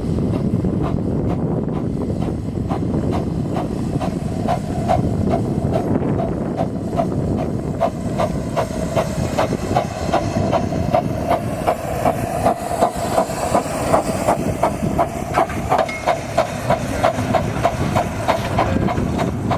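Romney, Hythe and Dymchurch Railway miniature train running: a steady rumble with the rhythmic clickety-clack of wheels over rail joints, about two to three clicks a second and crisper in the second half, and a steady whine from the running gear through the middle.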